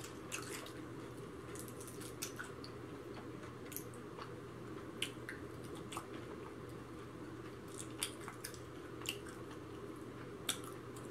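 A person chewing fried chicken and picking the meat apart with their fingers: scattered small wet smacks, squishes and crunches, over a faint steady hum.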